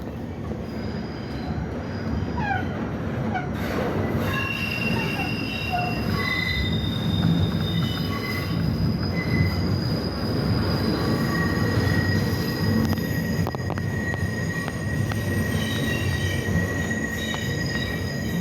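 R68 subway train running with its wheels squealing: several high, steady squeal tones come and go over a low rumble, with a few short falling glides in the first few seconds.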